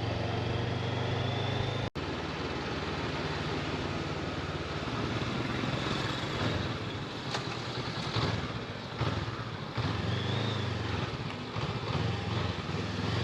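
Honda motorcycle engine running under way, with wind and road noise over it; the engine note rises and falls through the second half. The sound breaks off for an instant about two seconds in.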